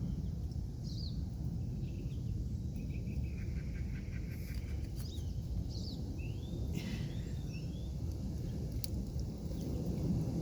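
Outdoor background: a steady low rumble with faint, short bird chirps now and then.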